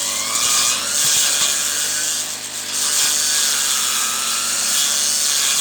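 Brush cutter running at high revs while cutting weeds: a loud, dense hiss with a faint engine whine that wavers in pitch.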